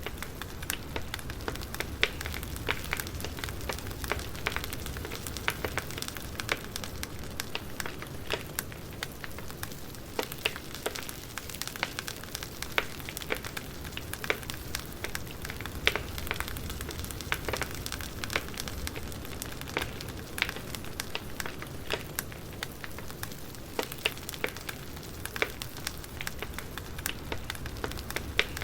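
Wood fire crackling: irregular sharp pops and snaps of burning logs over a low, steady rumble of the flames.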